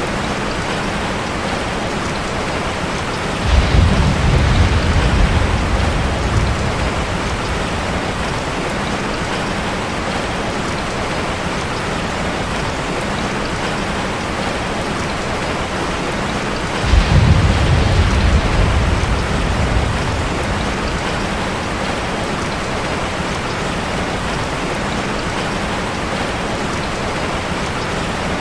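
Steady hiss of heavy rain drumming on a metal roof, with two low rumbles of thunder, one a few seconds in and one just past halfway, each fading away over about three seconds.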